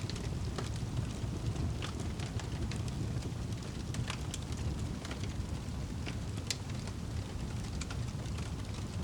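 Wood fire crackling in a fireplace: scattered sharp pops and snaps over a steady low rumble of the burning fire.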